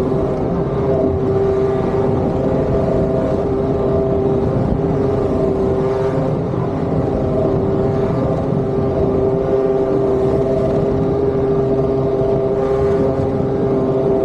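Motosurf board's small engine running at a steady, high speed, a continuous droning tone with water and wind noise underneath.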